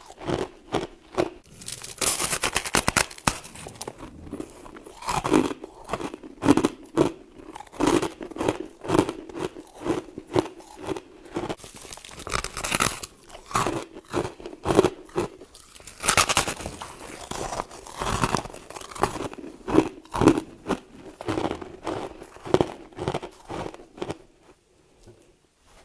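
Close-up crunching and chewing of bites of compacted frost, a rapid run of crisp crunches that thins out near the end.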